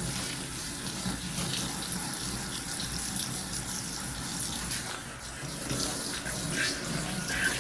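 Water running from a kitchen tap into a sink during dishwashing, with small clinks and splashes of dishes being handled.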